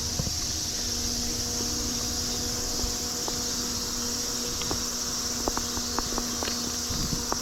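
Steady shrill chorus of insects in the undergrowth, with a constant low hum beneath it from the small fan of a fan-cooled work jacket. A few light crunching steps on vegetation come in over the last couple of seconds.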